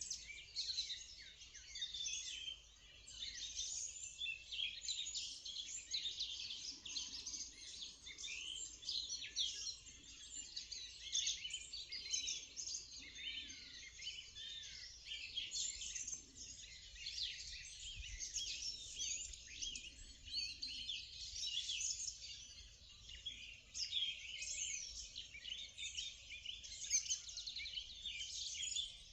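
Many songbirds singing at once in a dense, unbroken chorus of short, high chirps and trills.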